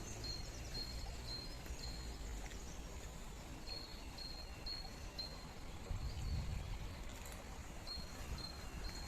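A small bird calling in runs of short, evenly repeated high notes, with pauses between the runs, over a steady low outdoor rumble.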